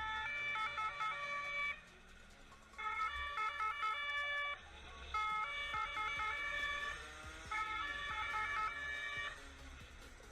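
Electronic police siren warbling, with its tone jumping rapidly between pitches in four bursts of under two seconds each.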